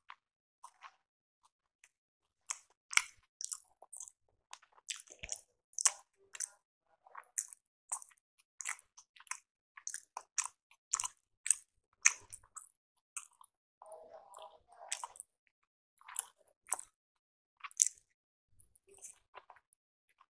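A person chewing rice appe (paniyaram) with their mouth: an irregular run of short mouth clicks, some much louder than others.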